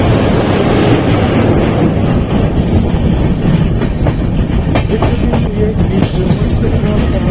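Passenger train running along the track: a steady rumble with the clatter of wheels over rail joints, a few sharper clicks coming through around the middle.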